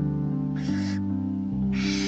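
Two short hissing calls of barn owls, about half a second in and near the end, over soft background music with long held notes.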